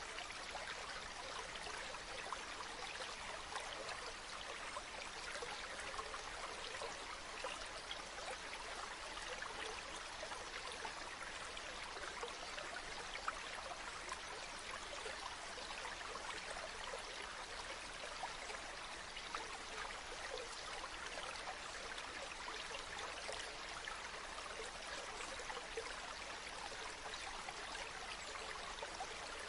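A river or stream flowing steadily over stones, with a constant babbling and trickling of water.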